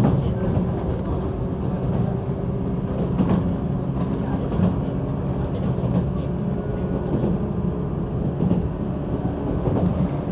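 Running noise inside a JR East 185-series electric train car: a steady rumble of wheels on rail with a low motor hum and occasional light clicks.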